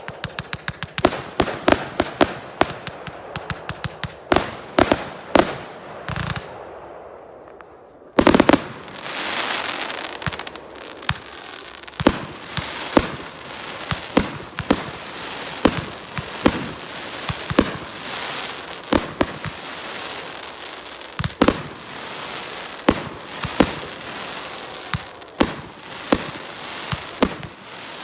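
Consumer fireworks going off in rapid succession: a run of sharp bangs several a second, then a loud burst about eight seconds in followed by continuous crackling hiss under further bangs.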